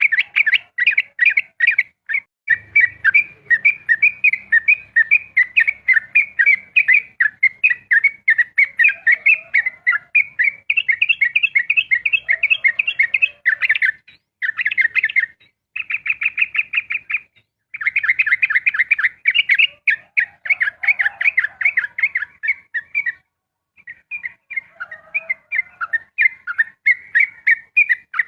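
Yellow-vented bulbul (trucukan) singing a fast, almost unbroken run of rapid chirping notes, the rapid-fire 'ropel' song, with a few short breaks around the middle and again about four-fifths of the way through.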